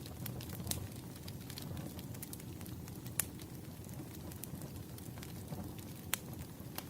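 Wood fire crackling: irregular sharp pops and snaps over a steady low rush of flame. The loudest pops come about three seconds in and again about six seconds in.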